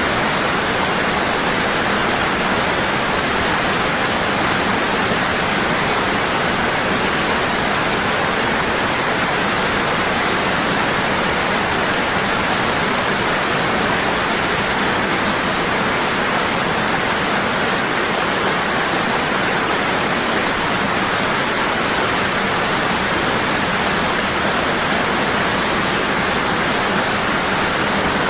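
Waterfall pouring heavily and constantly: a steady rush of falling water with no change.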